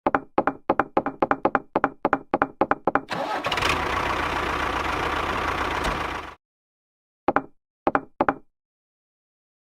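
A rapid series of sharp knocks, about five a second, then a steady engine-like running sound for about three seconds that cuts off suddenly. Three more knocks follow near the end.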